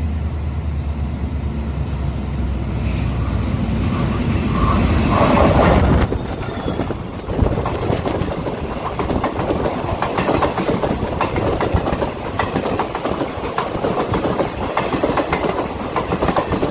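A train crossing a railway bridge. A low steady drone grows louder until about six seconds in, then gives way to a fast, continuous clatter of wheels on the rails.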